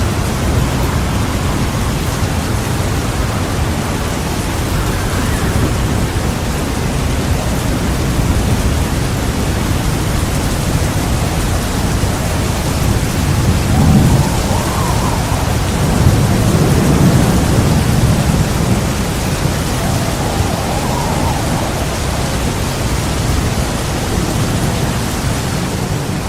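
Heavy rain falling steadily through a thunderstorm, with low rolls of thunder rumbling about halfway through and again a couple of seconds later.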